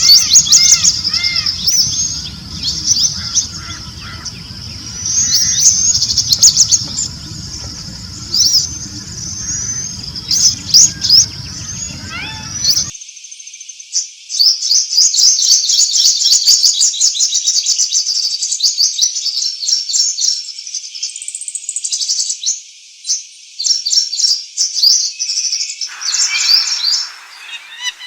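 A chorus of many small birds chirping and twittering in dense, overlapping high calls. About halfway through, the low background rumble cuts off abruptly, leaving only the birdsong.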